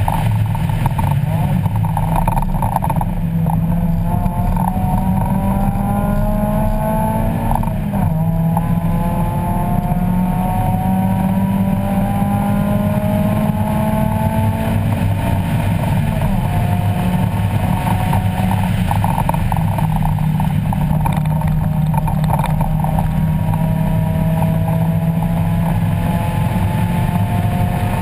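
1994 Mazda Miata's 1.8-litre four-cylinder race engine running hard under load on track, heard from inside the cabin, its pitch climbing through long pulls and dropping back twice before climbing again.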